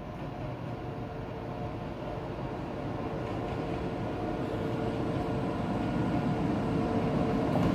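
Himgiri Express passenger train approaching the station, its rumble and a steady hum growing louder as it nears.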